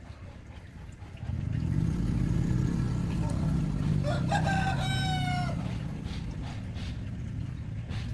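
A rooster crows once, about four seconds in, in a single slightly falling call. Under it a low engine-like rumble starts about a second in and then eases off.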